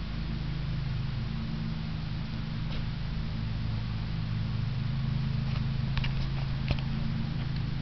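Kawasaki ZX-6R 636's inline-four engine idling steadily through a Boz Bros Race Core aftermarket exhaust, with a few light clicks near the end.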